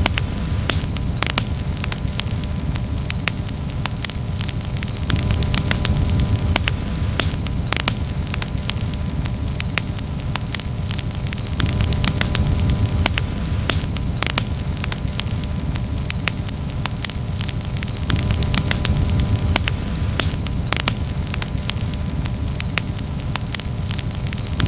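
Campfire crackling: frequent sharp pops and snaps over a steady low rumble of burning.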